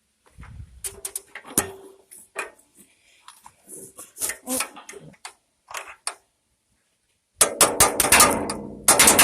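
Metal striking metal: a tractor part being knocked into place with a tool used as a makeshift hammer. Scattered irregular taps give way, about seven seconds in, to a quick run of loud, ringing strikes.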